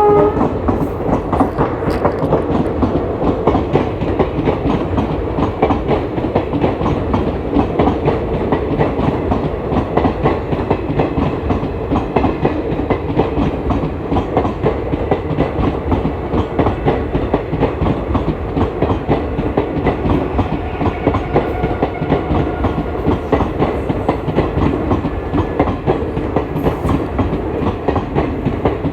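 Express passenger train's coaches rolling along the platform, with a steady clickety-clack of wheels over rail joints and a continuous rumble.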